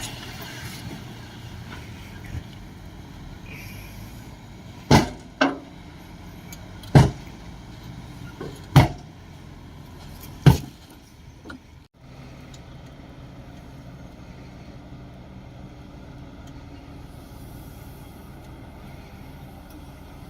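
Shantui DH17C2 bulldozer's diesel engine running steadily, with five sharp knocks or clanks over the first half and a short break in the sound about twelve seconds in.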